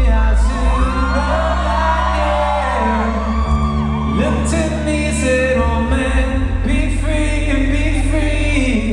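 Live rock band playing amplified music with a singer's voice gliding over sustained bass notes.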